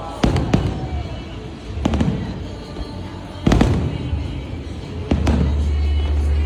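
Aerial fireworks bursting: a series of sharp bangs, about five of them, spaced unevenly.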